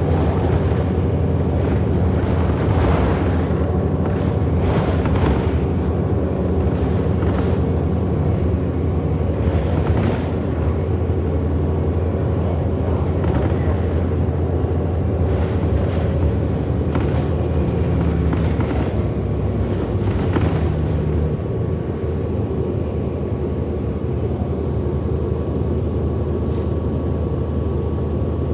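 Cabin of a 2008 Orion NG diesel-electric hybrid bus under way: a steady low drone from the drivetrain with a thin, steady high whine over it, which the rider calls a weird motor sound, and occasional brief knocks from the body. About 21 seconds in the drone drops lower.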